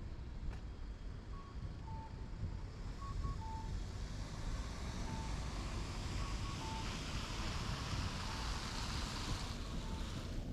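City street noise in a snowstorm: a low rumble of wind on the microphone and a traffic hiss that swells and then cuts off near the end. Short electronic beeps at two close pitches sound every second or two.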